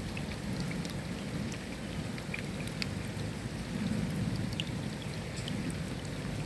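Steady rain with individual drops ticking sharply on a surface, over a low rumble that swells about four seconds in.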